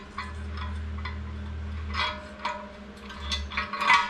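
Metal transmission parts and tools clinking and knocking against each other on a workbench, with the loudest clatter near the end. A low hum runs under the first half, then stops.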